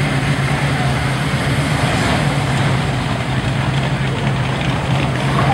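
A car engine idling steadily at close range, a low, even engine note.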